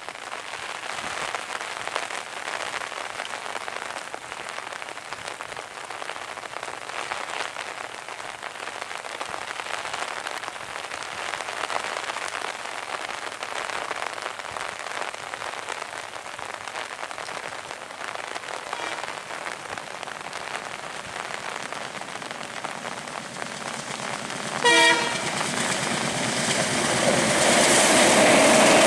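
Steady hiss of rain. About 25 s in, an ALCO diesel locomotive's horn gives one short blast, and over the last few seconds the train's running noise grows louder as it comes onto the bridge.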